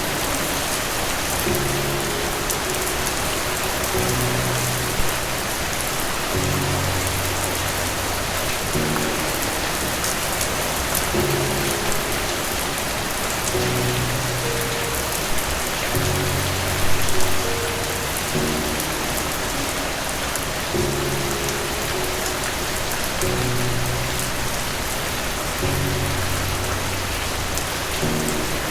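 Steady rain falling, with soft, low musical chords beneath it that change every two to three seconds.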